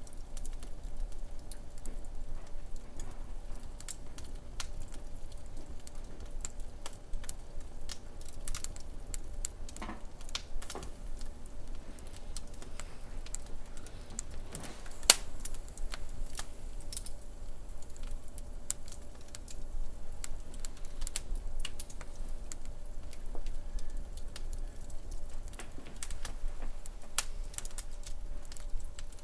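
Wood fire crackling in a fireplace: a steady scatter of small ticks and pops, with one sharper pop about fifteen seconds in.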